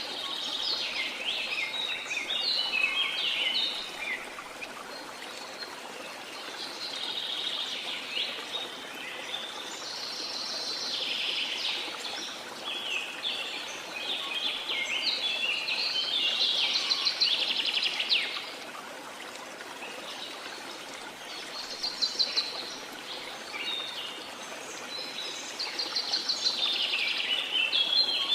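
Rainforest birds singing in phrases of rapid, trilled notes that come and go every few seconds, over a steady hiss of falling water.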